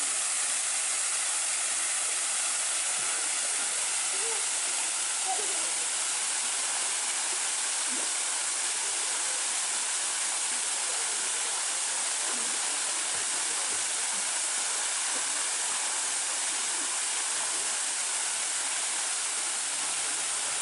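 Steady rush of a waterfall, its water pouring down without let-up.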